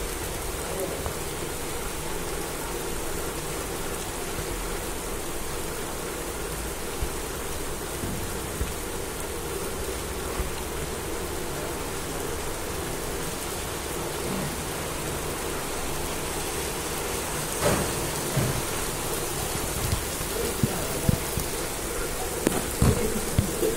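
Steady rain falling on a hard surface, a continuous even hiss, with a few louder taps in the last several seconds.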